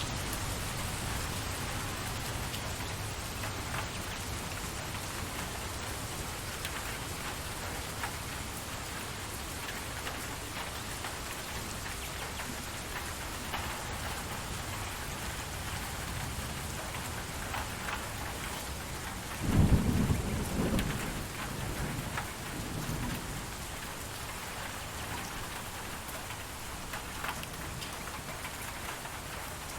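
Steady rain falling. About two-thirds of the way through, a low clap of thunder rumbles for a few seconds and dies away.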